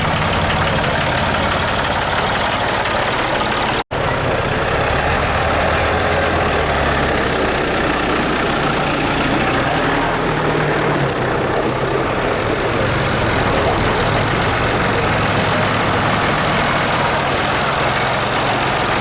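Tractor and car engines running and idling together, with low engine notes shifting now and then. The sound breaks off for an instant about four seconds in.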